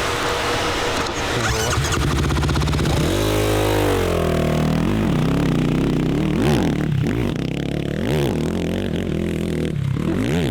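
Racing quad's engine riding the track, revved up and down over and over as the throttle is opened and shut about once a second. The first few seconds are a rushing noise before the engine's pitch stands out.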